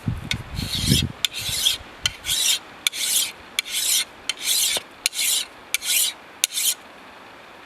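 A blade scraping bark off a log in about nine quick, rasping strokes, each with a sharp click, while debarking. A few dull knocks come in the first second, and the scraping stops shortly before the end.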